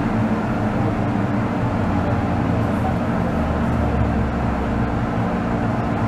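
MTR M-train electric multiple unit running at speed, heard inside the carriage: a steady rumble of wheels on track under a low hum from the traction equipment. A deep drone swells briefly around four seconds in.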